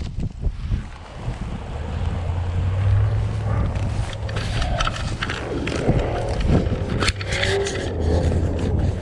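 A car driving through the snow: a steady low engine rumble that swells twice, with wind buffeting the microphone.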